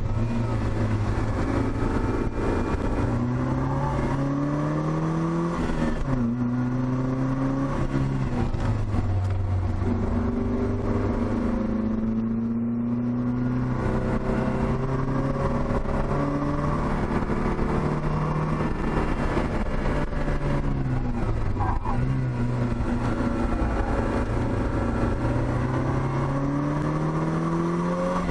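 Opel Speedster's 2.2-litre four-cylinder engine heard from inside the open cockpit, climbing in revs under acceleration and dropping sharply at each gear change, with a brief easing-off partway through.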